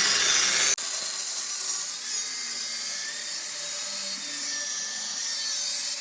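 A power tool cutting through a steel roll-cage bar on a dirt race car: a steady, harsh hiss with no clear pitch. The sound changes abruptly just under a second in.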